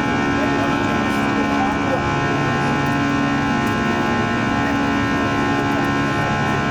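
Airbus A340-300's four CFM56 turbofan engines at climb power, heard inside the cabin as a steady drone with many steady whining tones layered over it.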